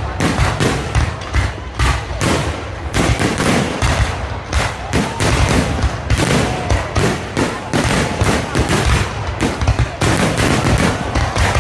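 Fireworks display: a rapid, continuous barrage of bangs and crackling bursts, several a second, without a pause.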